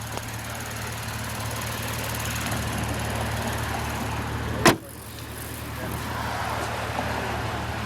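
2008 Lexus IS250's V6 idling steadily. A single loud slam about two-thirds of the way through, typical of the hood being shut, after which the engine sounds duller.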